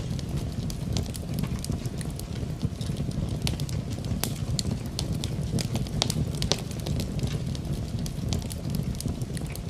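Wood fire crackling in a fireplace, with frequent irregular sharp pops and snaps over a steady low rumble, mixed with rain.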